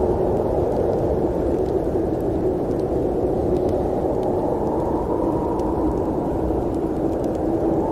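Steady low rumble of a train running, with a few faint light ticks now and then.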